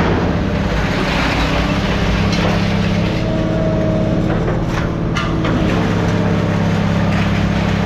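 Heavy machine's engine running steadily under load, with two short metal clanks about two-thirds of the way through.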